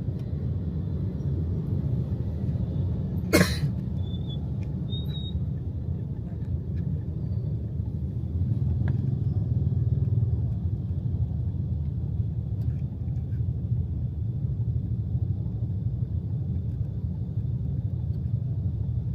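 Steady low rumble of a vehicle ride in traffic, swelling slightly about halfway through, with one sharp knock about three and a half seconds in.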